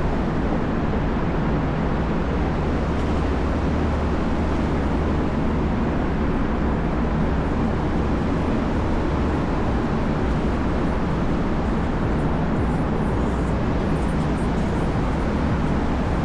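Steady low rumble of downtown street traffic, a dense even noise with no single event standing out.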